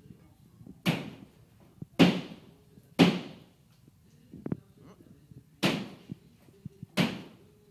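Five heavy blows struck in demolition work, each followed by a short ringing decay. The first three come about a second apart, then a pause of roughly two and a half seconds before two more.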